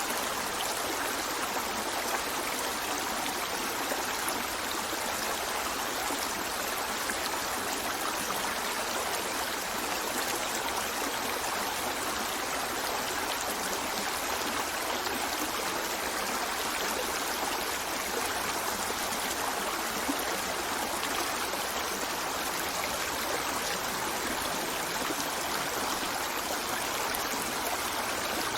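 Running water of a stream, a steady, even rush and trickle that does not change.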